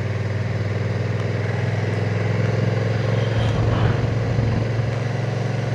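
Honda NT1100's parallel-twin engine running at a steady, even pitch while riding along, with road and wind noise.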